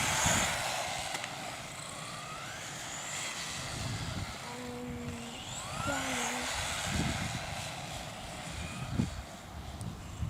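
Electric motor whine of a 1:10 scale RC car, rising in pitch each time it accelerates, several times over.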